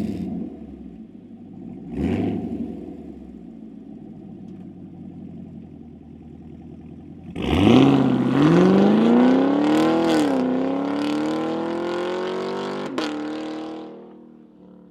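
A 6th-gen Chevrolet Camaro with an aftermarket exhaust blips the throttle once from idle, settles back to idle, then revs up sharply several seconds in. The pitch rises, dips twice and climbs more slowly before the sound fades out near the end.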